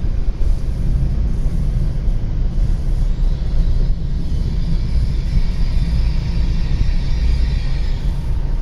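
W7 series Shinkansen train running, a steady low rumble, with a faint high whine coming in about three seconds in and fading near the end.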